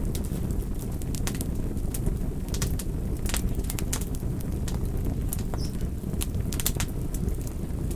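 Campfire burning: irregular sharp crackles and pops of the burning wood over a steady low rush of the flames.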